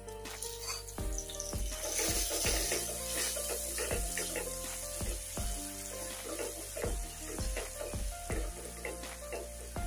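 Wet masala paste sizzling as it is poured into hot oil in a nonstick pan and stirred with a spatula; the sizzle swells about two seconds in. Background music plays underneath.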